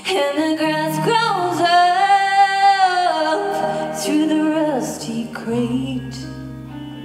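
A slow, tender song: a solo voice singing over instrumental backing, with one long held note in the middle.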